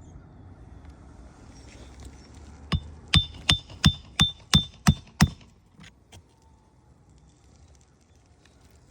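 A hammer driving a nail: about eight sharp, ringing metallic blows in quick succession, roughly three a second, after a low rumble.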